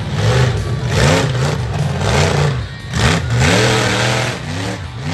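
Monster truck engines revving hard over and over, the pitch climbing and dropping again and again, with bursts of loud rushing noise.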